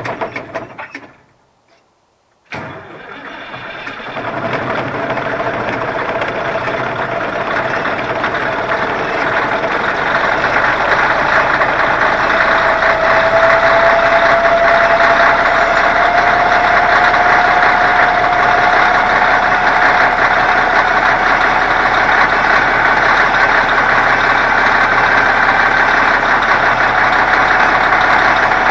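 Heavy diesel engine of a CAT 637 scraper running. The sound drops out briefly just after the start, then returns suddenly and grows steadily louder over several seconds, with a slowly rising pitch as the engine is worked harder.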